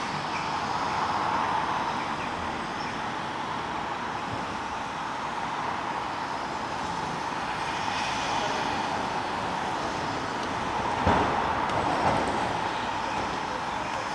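Train running steadily, with two short knocks about a second apart near the end.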